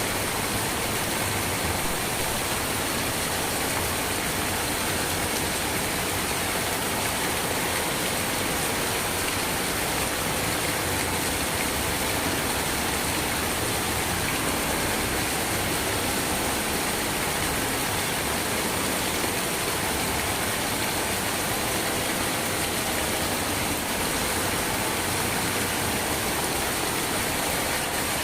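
Steady, heavy rain falling, an even, unbroken hiss with no distinct drops or thunder.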